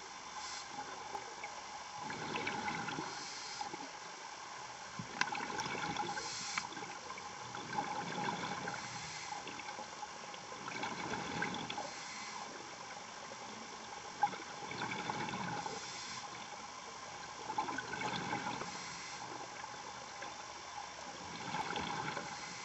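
A diver breathing through a regulator underwater: a gurgling rush of exhaled bubbles about every three seconds, over a steady hiss.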